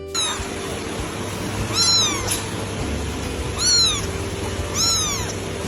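A cat meowing three times, short meows that each rise and fall in pitch, over a steady background hiss and hum.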